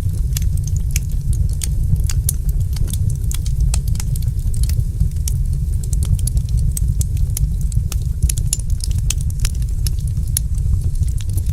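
Wood fire crackling: many sharp, irregular pops and snaps, several a second, over a steady low rumble of the burning fire.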